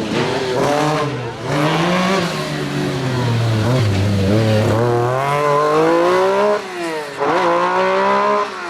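Rally car engine revving hard under acceleration, the revs climbing steadily, dropping sharply at a gear change about six and a half seconds in, then climbing again before easing off near the end.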